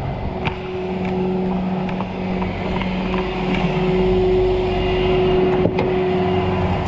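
A motor vehicle running with a steady droning tone that grows slightly louder, with a couple of sharp clicks.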